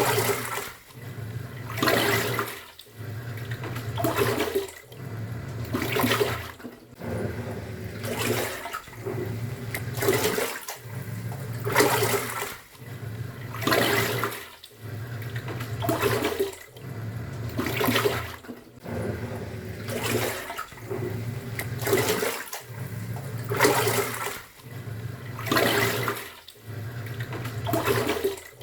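Top-loading pulsator washing machine agitating a load in water. A swishing surge of water comes about every two seconds, with the motor's low hum between surges.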